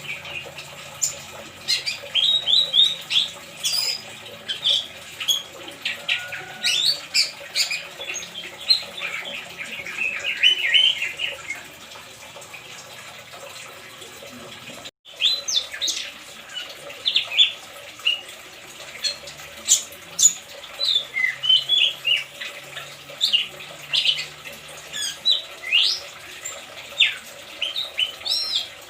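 Oriental magpie-robin giving rapid, short chirps and squeaky notes over a steady, faint trickle of water, the trickling meant to mimic its natural surroundings and coax a stressed bird back into song. The sound cuts out for a split second about halfway.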